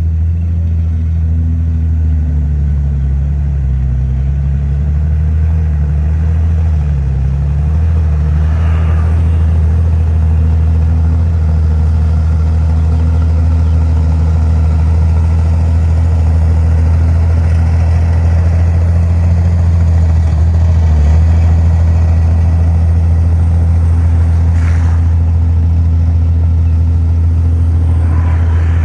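Komatsu D51PX bulldozer's diesel engine running steadily under load, a loud deep engine note whose pitch wavers a little in the first several seconds.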